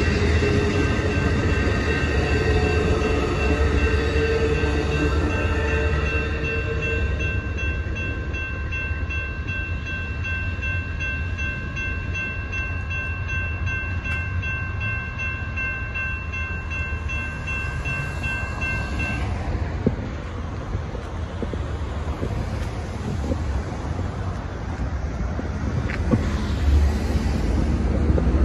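Amtrak bi-level passenger cars rumble past a grade crossing while the crossing's warning bell rings steadily. The bell cuts off about 19 seconds in, leaving the low rumble of the departing train and road traffic.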